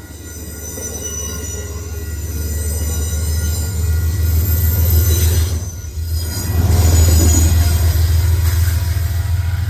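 Passenger train moving past at close range: a steady low diesel drone with high-pitched squealing from the wheels on the rails, growing louder, with a brief dip about six seconds in.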